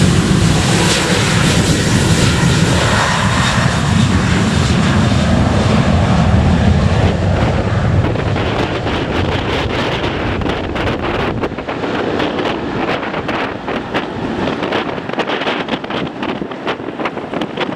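Boeing 737-800's CFM56-7B jet engines at takeoff power: a loud, low rumble that fades over the first half as the airliner departs. Wind then buffets the microphone in gusts.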